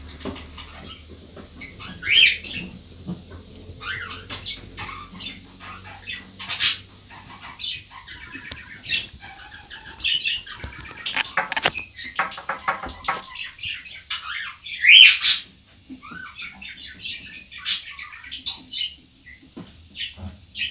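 A small bird chirping: short, sharp high calls every few seconds, some sweeping upward in pitch.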